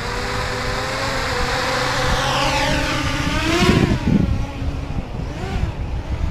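Brushless motors of a 250-size quadcopter whining, the pitch climbing over a couple of seconds and then falling sharply a little past the middle, over a low rumble of wind.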